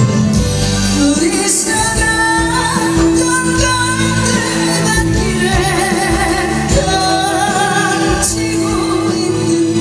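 Live music: a female voice sings a held, wavering melody over a backing band's accompaniment.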